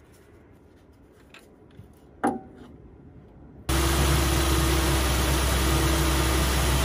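Faint handling noise and one sharp metal clank a little past two seconds in, then, starting suddenly near four seconds in, the 3.6-litre Pentastar V6 of a 2018 Ram 1500 idling steadily with its new crankshaft damper (harmonic balancer) fitted.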